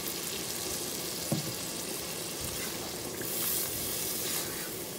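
Onion and spice masala sizzling in hot oil in a nonstick pot, just loosened with a splash of hot water, and stirred with a silicone spatula. The sizzle swells as the paste is stirred about three seconds in, and there is one short knock about a second and a half in.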